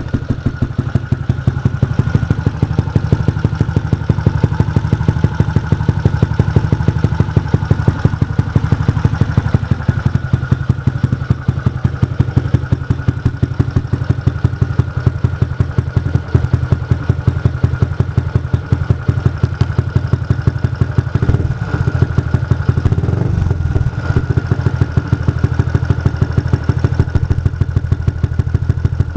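Yamaha Jupiter MX 135's single-cylinder four-stroke engine idling steadily through an aftermarket R9 exhaust silencer, with an even, regular pulse of exhaust beats.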